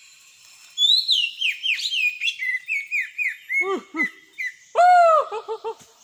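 Bird calling: a rapid series of high, falling chirps, about three a second, then a few lower, fuller notes, the loudest a single arched call about five seconds in.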